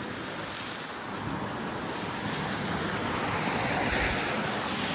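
Street traffic on a slushy, snow-covered avenue: a steady hiss of tyres through wet slush that swells to its loudest about four seconds in as a vehicle passes, then eases.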